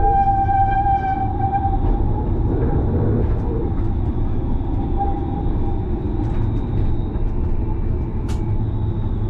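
Alstom Citadis low-floor tram running along the track: a steady rumble of wheels on rail. A high electric whine from the drive fades out over the first couple of seconds, and there is a single sharp click near the end.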